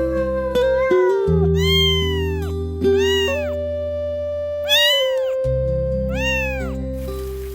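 A cat meowing about four times, each meow rising and then falling in pitch. Background music with long held low notes plays under the meows.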